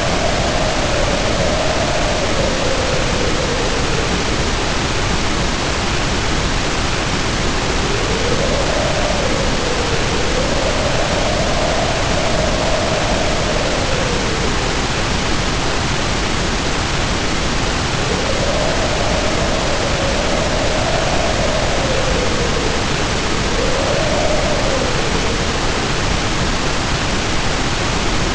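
Heavy rain pouring in a steady hiss, with wind howling over it in several long gusts whose moaning pitch rises and falls, easing off between gusts.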